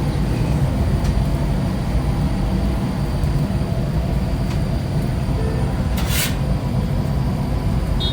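Steady low rumble of a motor vehicle on the move, with one short hiss about six seconds in.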